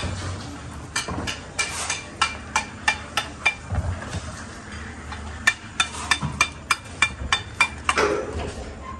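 Rapid hammer blows with a ringing, metallic note, about three strikes a second. They come in two runs of roughly ten blows each, with a pause of about two seconds between them.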